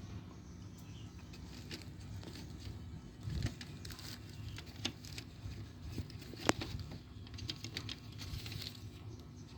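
Light clicks and taps from small objects being handled, with one sharper click about six and a half seconds in, over a steady low hum.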